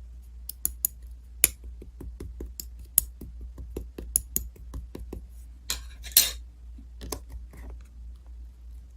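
A string of light, sharp clicks and clinks of small hard objects, with a brief rustling swish about six seconds in, over a steady low hum.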